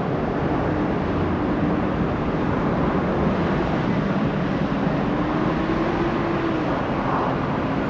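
Jet airliner engine noise: a steady rumble with a faint drone that wavers slowly in pitch.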